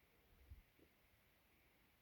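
Near silence: room tone, with one faint low thump about half a second in.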